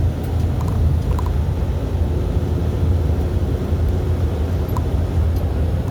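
Steady low rumble of a truck's engine and road noise while driving.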